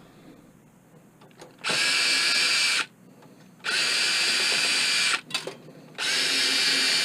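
Power drill spinning in three short runs of about a second each, a steady high whine, starting and stopping as it drives screws out of a computer case.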